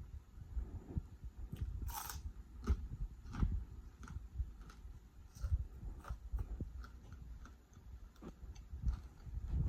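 Close-miked chewing: irregular wet mouth clicks and smacks over soft low thumps, with one brief brighter noise about two seconds in.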